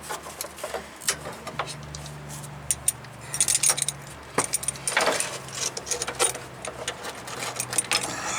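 Metal hand tools clinking and tapping on steel as a wrench is worked on a rusty brake line fitting under a truck, with a burst of metallic jingling about three and a half seconds in and again around five seconds. A faint steady low hum runs underneath.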